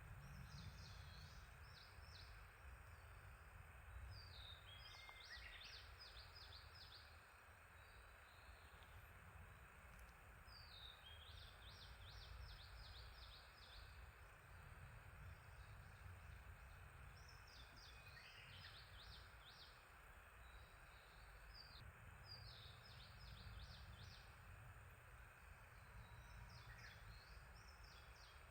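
Small songbirds singing: short phrases of rapid high notes repeated every few seconds, over a faint steady low outdoor rumble.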